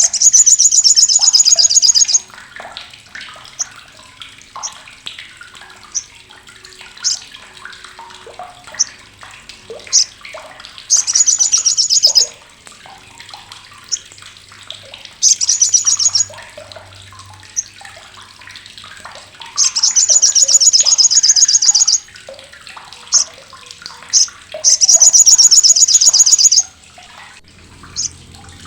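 Olive-backed sunbird (sriganti) giving its harsh 'crecetan' chatter: five bursts of fast, high-pitched rattling, each one to two and a half seconds long, with single sharp chips in between.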